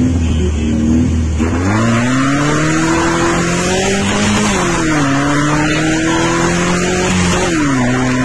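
Caterham-replica sports car's engine, heard from the open cockpit, held at steady revs at the start and then pulling away hard. The pitch climbs, drops at a gear change about four seconds in, climbs again, and drops at a second upshift near the end.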